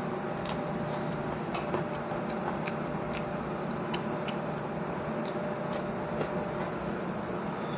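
Close-up eating sounds of a man eating rice and curry by hand: irregular chewing and mouth clicks and smacks, a few each second, over a steady background hum.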